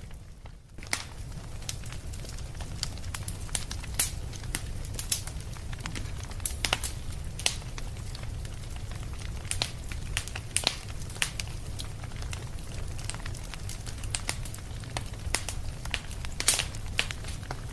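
Fireplace fire crackling: irregular sharp pops and snaps over a steady low rumble, with a brief lull right at the start.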